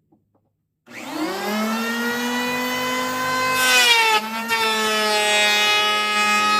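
Electric hand planer starting up about a second in, its motor whine rising quickly to a steady high pitch. About four seconds in the pitch sags briefly as the planer takes a cut, then it runs on.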